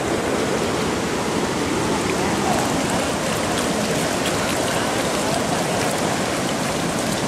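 Steady hiss of rain and running water, with faint scattered drop ticks.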